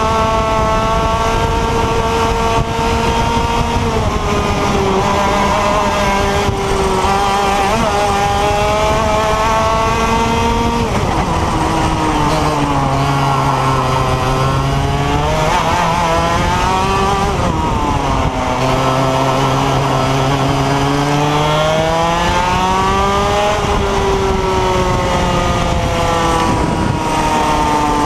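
125cc IAME X30 single-cylinder two-stroke kart engine at full race pace, its pitch dropping sharply twice (around 11 s and 18 s in) as it slows for corners and rising steadily again as it pulls out of them.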